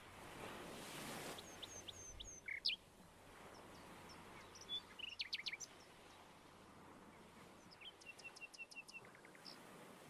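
Small birds chirping faintly in short groups of quick high chirps and trills: about two seconds in, around five seconds, and again near the end, over a soft hiss.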